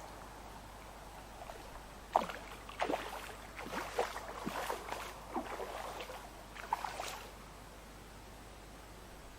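Hooked barbel splashing at the surface in a run of splashes lasting about five seconds as it makes a last fight at the landing net, the first splash the loudest.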